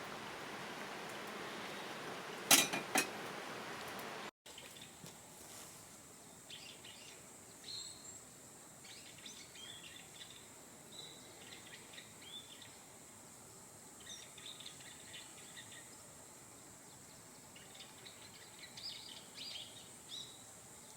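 A steady rushing noise with two sharp knocks about half a second apart, cut off suddenly a few seconds in. Then short, scattered bird chirps over a faint steady high whine.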